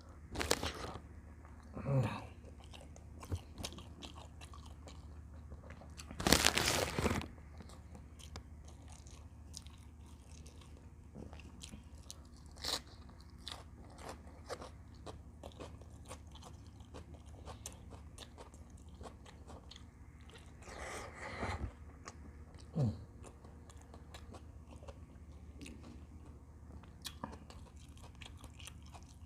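Close-up eating sounds of a person chewing and biting into a camel bulalo meal, with small clicks scattered throughout and a few louder bursts, the loudest lasting about a second some six seconds in.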